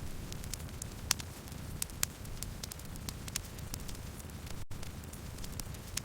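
Campfire burning: wood crackling with irregular sharp pops over a steady low rumble of the flames. A split-second dropout in the sound about three-quarters of the way through.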